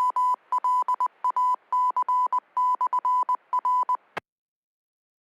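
Ham radio repeater sending its Morse code identifier: a steady high beep keyed in short and long dots and dashes, ending with a click about four seconds in.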